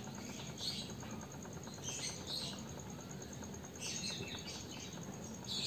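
A few faint, short bird chirps, about five scattered through, over a quiet background.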